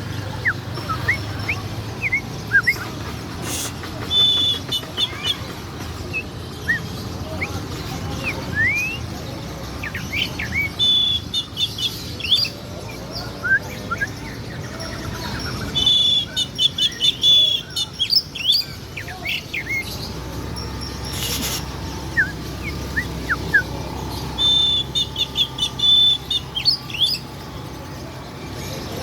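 Songbird in full song, giving many short, sharp rising chirps and varied phrases, broken about four times by a rapid, high, loud trill. This is the 'nembak' burst delivery with rich fill phrases ('isian') that Indonesian bird keepers prize in a bird in top form.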